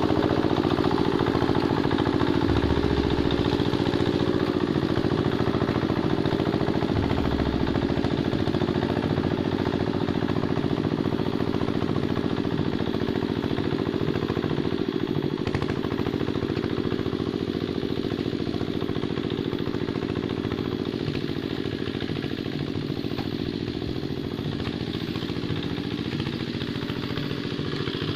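Single-cylinder diesel engine of a Quick Capung Metal two-wheel hand tractor running steadily under load while it ploughs wet paddy soil, gradually getting a little quieter.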